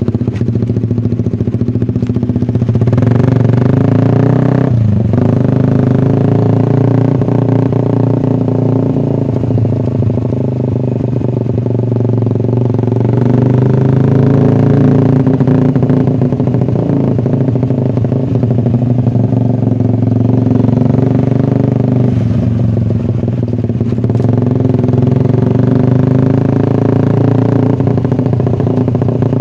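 Suzuki Satria FU 150's single-cylinder four-stroke engine running loud through an aftermarket SC Project exhaust, its pitch rising and falling with the throttle. There is a brief dip about five seconds in and another a little before the end.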